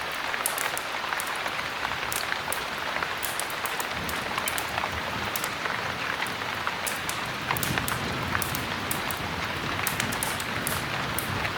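Steady heavy rain, with frequent sharp crackles and pops of a wood fire in a fireplace mixed in. A low rumble swells from about four seconds in.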